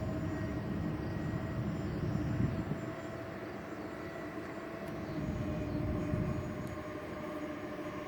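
Electric ducted fans of a radio-controlled Airbus A330 model airliner in flight, giving a steady whine that steps slightly lower about five seconds in, over a gusty low rumble.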